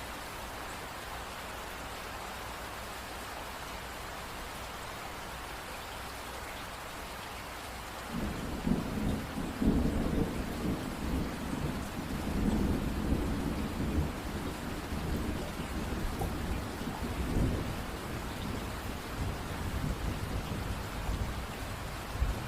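Steady rain hiss. About eight seconds in, a low rumble of thunder sets in under the rain and carries on, swelling and fading.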